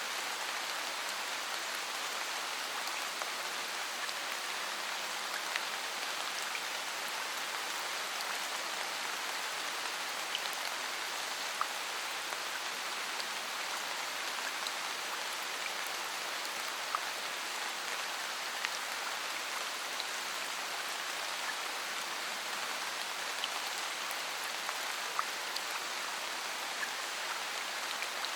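Steady rainfall: an even hiss of rain with scattered sharper ticks of individual drops.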